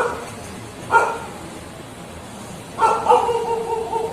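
An animal calling: a short yelp, another about a second later, then a longer drawn-out cry near the end.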